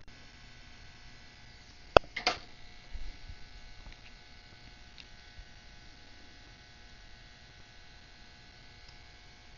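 Steady electrical hum, with a few sharp clicks about two seconds in and a softer knock a second later, from small tools working the cracked front glass off an iPod Touch.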